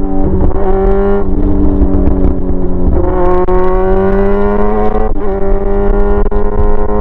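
Yamaha R6 inline-four running with no muffler on a straight pipe, ridden under way. The engine note climbs for about two seconds and then drops sharply about five seconds in, as at a gear change.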